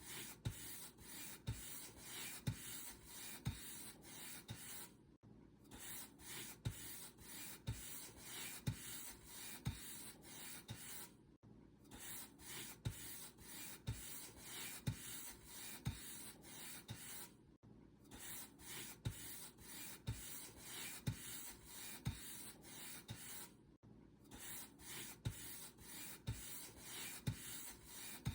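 Paint brush bristles rubbing back and forth over a surface in steady strokes, about two a second, with a brief silent pause every six seconds or so.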